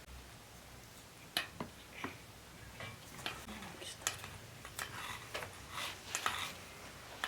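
Scattered light clicks and clinks of kitchenware being handled while cooking, a dozen or so separate knocks, with faint voices in the background.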